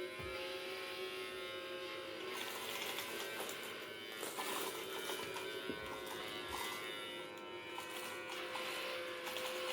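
Hoover Jovis handheld vacuum cleaner running on its high setting with a steady motor whine. From about two seconds in, a crackle of debris being sucked up rattles through it.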